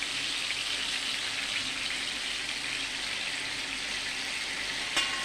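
Spice-coated gilki (sponge gourd) pieces shallow-frying in hot oil in a pan, a steady sizzle. One short click near the end.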